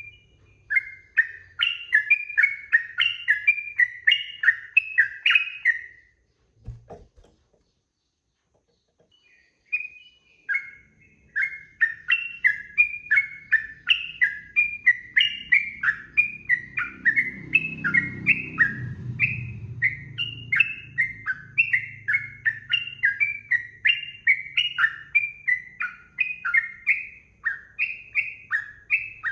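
Yellow-vented bulbul (trucukan) singing a rapid run of repeated chattering whistled notes, about four or five a second. The song breaks off about six seconds in, a brief knock follows, and after a few seconds of near silence the song starts again and runs on steadily.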